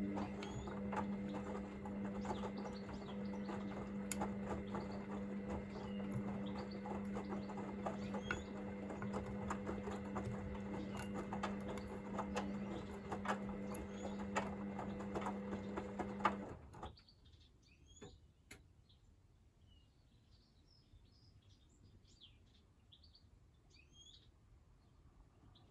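Hoover VisionDynamic washing machine's drum tumbling during the heat-and-wash stage: a steady motor hum with the load sloshing and many small clicks, stopping suddenly about two-thirds of the way through as the drum pauses. Birds chirp faintly, plainest once the machine stops.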